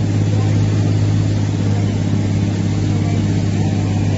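A motor engine running at a steady pitch, a constant low drone with no change in speed.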